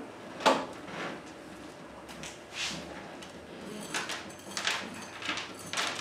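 Short scraping and rustling sounds of a bonsai forest's dry soil and matted roots being handled on a wooden table, about half a dozen of them, the sharpest about half a second in.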